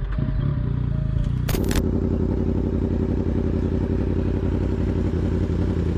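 Motorcycle engine running at a steady speed, with a brief sharp crackle about a second and a half in.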